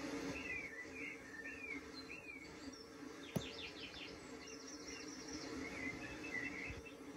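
Small bird chirping: a run of short rising-and-falling chirps, a quick trill about halfway, and a few more chirps near the end, over a steady low hum. A single sharp click comes just after the trill.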